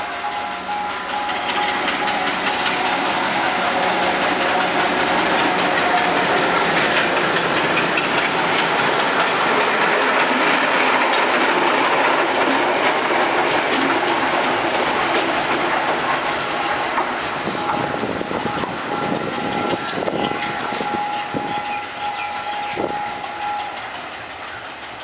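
A diesel-hauled passenger train passes close by, led by two diesel locomotives. The engines and wheel noise build to a peak midway, then fade as the coaches run off, with wheels clacking over rail joints near the end.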